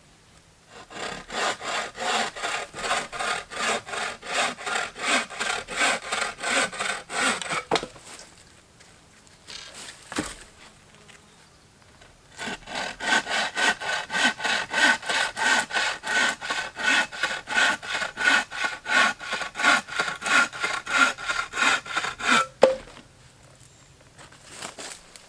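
Hand bow saw cutting through wood in quick, even back-and-forth strokes, in two runs with a pause of a few seconds between them. The second run ends in a sharp knock.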